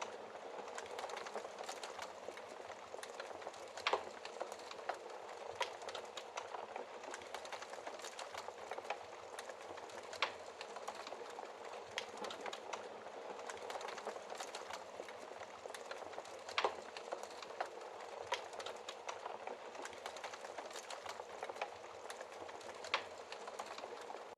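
Wood fire crackling in a fireplace: a steady hiss with frequent small crackles and four louder pops spread through.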